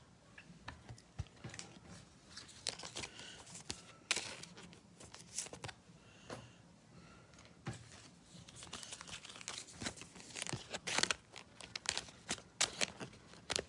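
Faint crinkling and tearing of a foil trading-card pack wrapper, with scattered small clicks and rustles from cards and plastic being handled.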